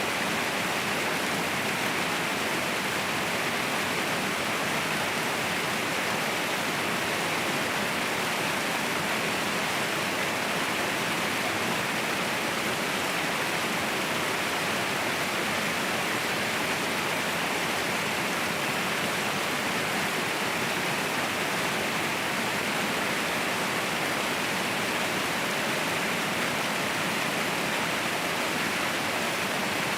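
Waterfall rushing: a steady, dense roar of falling water with no breaks or changes.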